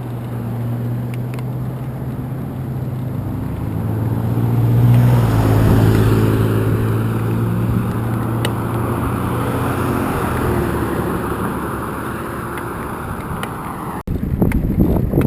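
A motor vehicle passes close by on the road: its engine hum and tyre noise build to a peak about five seconds in, then fade slowly. Near the end an abrupt cut brings in wind buffeting the microphone.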